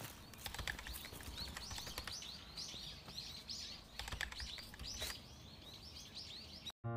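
A small songbird chirping: a rapid series of short, high chirps repeated over several seconds, faint against quiet forest background with a few soft clicks.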